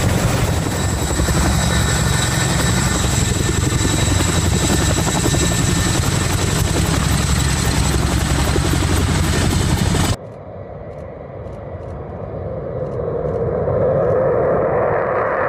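Helicopter running loudly: a fast, even rotor beat with a steady high turbine whine. About ten seconds in, the sound cuts off abruptly to a quieter rushing roar that builds up.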